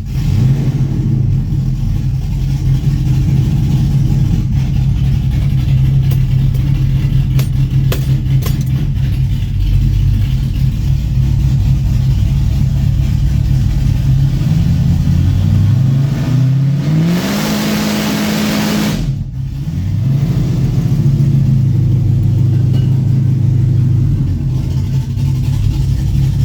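4.8L LS V8 with a Texas Speed MS4 camshaft, running with no mufflers, idles steadily. About two-thirds of the way in it is revved once: the pitch rises, holds for a couple of seconds, then drops back to idle.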